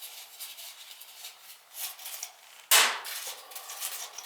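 Hand work on a soot-crusted oil-fired boiler and burner: metal scraping and rubbing with small clicks, and one sharp clank about two and a half seconds in.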